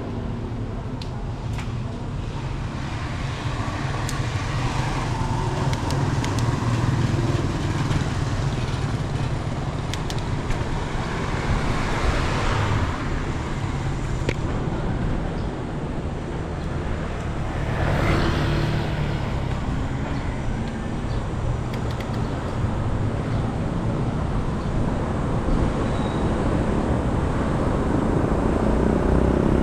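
Road traffic noise, a steady rumble of motor vehicles, with two vehicles passing close about twelve and eighteen seconds in.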